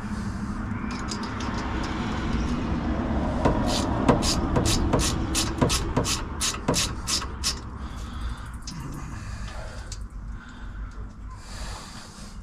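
A wrench working a stud out of the engine with lock nuts: a run of evenly spaced clicks, about three a second, lasting some four seconds, with fainter clicks and rubbing before and after.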